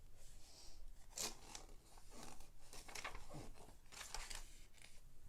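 Lego plastic pieces being handled and fitted: faint, irregular clicks and rustles of hard plastic.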